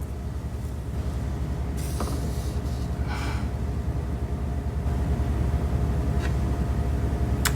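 Steady low hum of background noise, with faint breathy sounds about two and three seconds in and a short click near the end.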